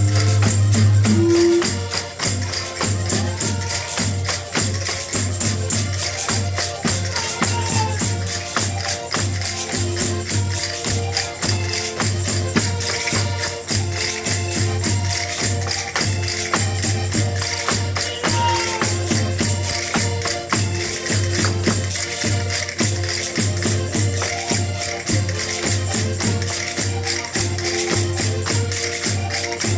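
Portuguese folk-dance music: an accordion holding the tune over a steady, fast beat of jingling tambourine-like percussion.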